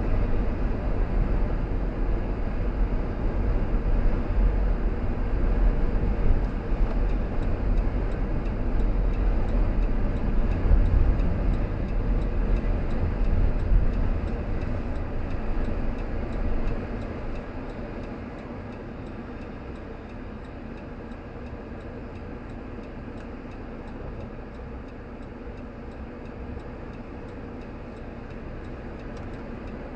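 A car driving, with a loud low road and engine rumble that quiets about 17 seconds in as the car slows. It then settles into a steady, quieter hum with a faint, regular ticking.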